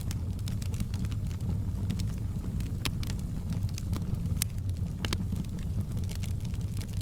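Wood fire in a fireplace, crackling: a steady low rumble of flames with irregular sharp crackles and a few louder pops.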